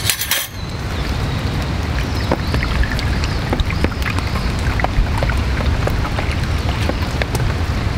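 Heavy rain falling steadily, with individual raindrops spattering in quick scattered ticks. A short scrape or rustle right at the start.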